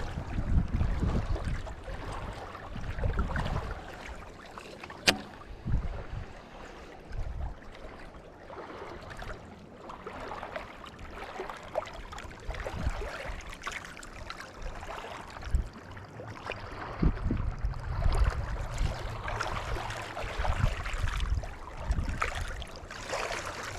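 Wind gusting across the microphone, an uneven low rumble that swells and eases, with one sharp click about five seconds in.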